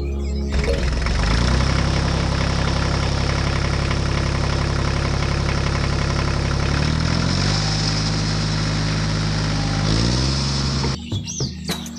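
Tractor engine running at a steady idle. Its pitch rises a little past the middle and falls back near the end, and it cuts off abruptly about a second before the end.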